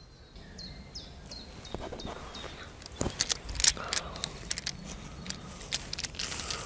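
A bird calling a run of short falling whistles, about three a second, for the first second and a half. From about three seconds in come scattered sharp crackles and clicks.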